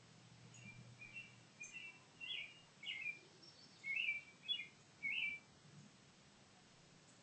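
Bird chirping outdoors: a run of short, bright chirps, about two a second, that stops about five and a half seconds in.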